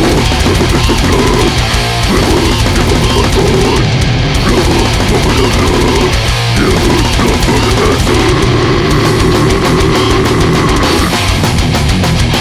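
Extreme metal recording: heavily distorted guitars and bass over fast, dense drumming, loud and unbroken.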